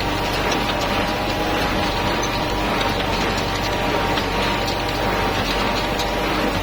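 Kubota tractor engine running steadily while a hay baler works behind it, with a light mechanical clicking and rattling from the baler's moving parts.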